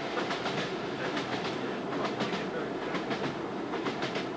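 Hastings diesel-electric multiple unit running at speed, heard from inside a coach: a steady rumble with wheels clicking over rail joints.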